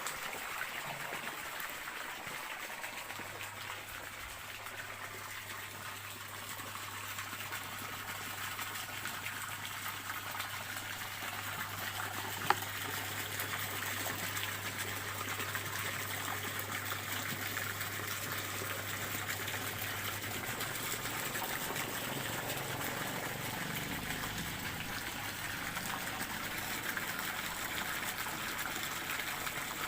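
Stream water running and trickling steadily, with a single sharp click about halfway through.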